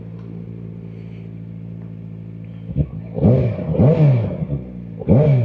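Kawasaki Ninja ZX-4RR's inline-four engine running steadily under way. About three seconds in, louder sounds whose pitch slides up and down join it for a couple of seconds.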